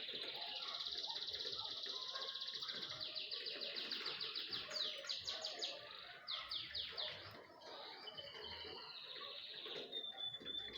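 Small birds chirping and twittering continuously, with fast trills and runs of quick descending notes about three seconds in and again around six seconds in.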